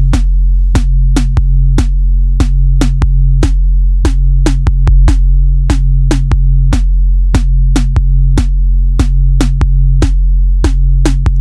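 Electronic music with a heavy, steady bass and a sharp, clicking drum-machine beat about two to three times a second, played loud through a car stereo with the bass turned up.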